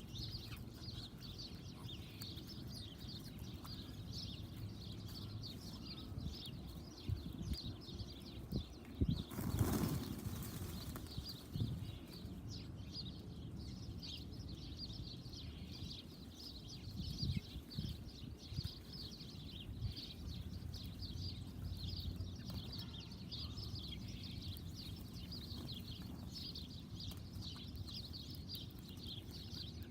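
Backyard bird sounds: a continuous high twittering of many short calls, with a brief rushing burst about ten seconds in.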